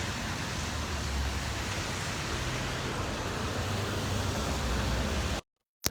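Street traffic noise: a steady hiss of passing cars with a low engine rumble underneath. The sound cuts off suddenly near the end.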